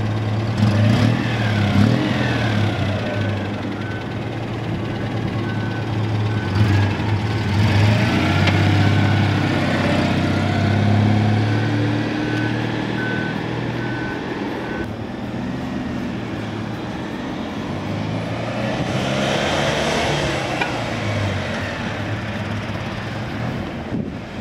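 Citroën 2CV's 602 cc flat-twin engine running as the car drives off, with a reversing beeper sounding at an even pace for about the first fifteen seconds. Road traffic passes in the second half.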